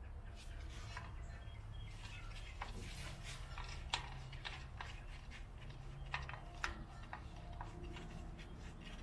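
Scattered light metal clicks and taps from hands working the parts of a rear drum brake and its star-wheel adjuster, with two sharper clicks about four and six and a half seconds in, over a low steady hum.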